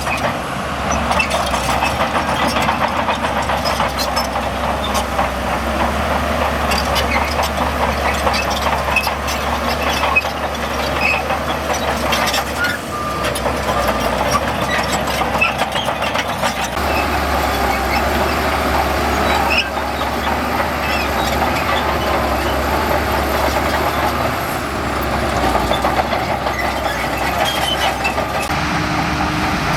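Heavy diesel earthmoving machinery running steadily under load, with scattered small clanks over the engine noise.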